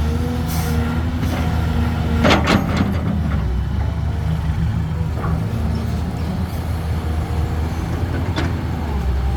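Heavy diesel engine running steadily. A few short knocks or clanks come about two seconds in, and one more near the end.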